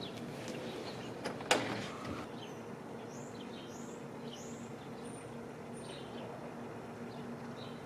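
Small birds chirping, a run of short notes starting about two and a half seconds in, over a steady low hum. A single sharp knock about a second and a half in is the loudest sound.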